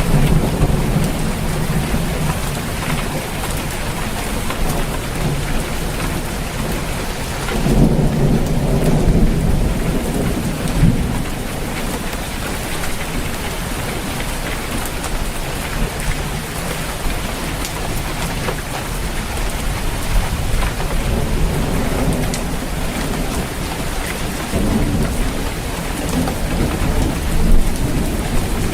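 Steady rain falling on a roof, with thunder rumbling low. The thunder is loudest from about eight to eleven seconds in, with weaker rumbles at the start and near the end.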